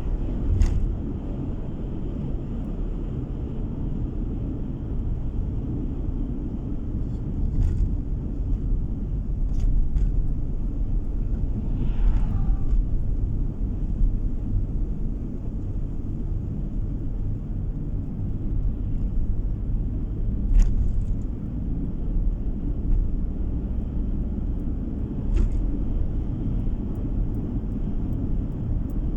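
Car driving, heard from inside the cabin: a steady low rumble of tyres and engine, with a few short knocks from bumps in the road.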